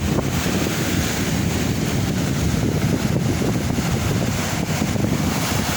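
Wind buffeting the microphone, with sea waves washing on the beach beneath it, a steady low rumble with no let-up.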